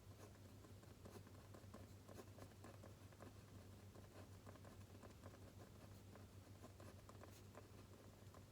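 Faint scratching of a pen or pencil writing on paper, many short strokes in quick succession, over a steady low room hum.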